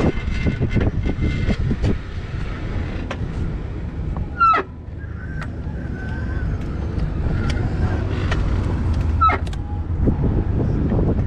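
Wind rushing over the microphone and road traffic noise while riding an electric bike along a city street, a steady low rumble throughout. Two short, sharp squeaks with falling pitch cut through, about four and a half seconds in and again near nine seconds.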